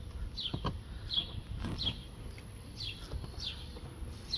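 A small bird calling over and over, each call a short high chirp that falls in pitch, about one every 0.7 seconds, over a low background rumble. There is a soft knock about half a second in.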